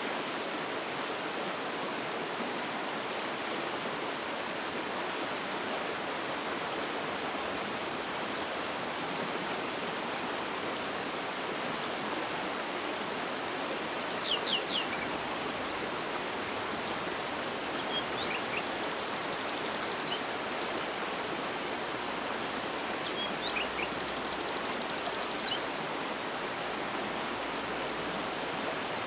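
Waterfall rushing steadily, with a few short bird chirps and quick falling calls in the second half.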